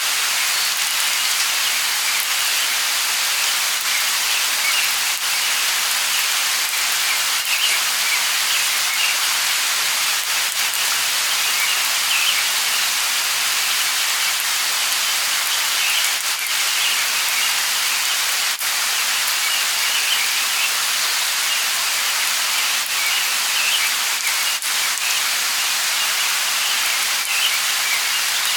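Light rain falling steadily, an even hiss with scattered sharper drips. Birds chirp on and off above it every few seconds.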